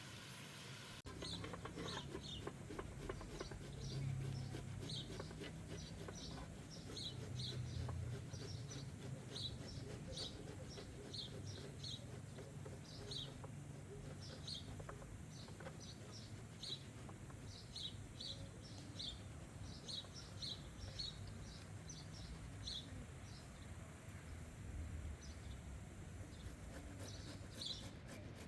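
A small bird chirping over and over, short high chirps about one or two a second, over a steady low outdoor rumble.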